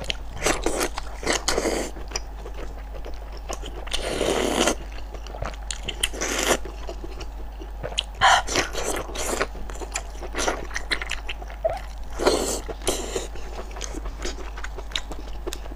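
Close wet chewing and mouth smacking of saucy braised pork intestines. Irregular clicks run throughout, with a few louder, longer wet bursts scattered through.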